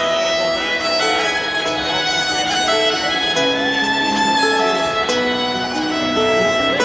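A live band plays an instrumental intro, with a fiddle carrying a sustained, stepwise melody over guitar accompaniment.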